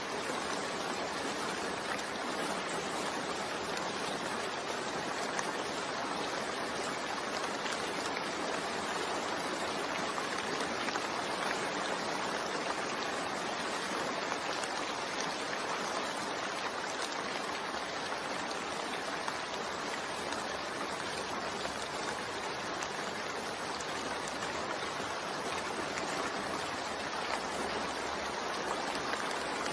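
Rain falling steadily: an even, unbroken rush of water noise with no pauses or changes.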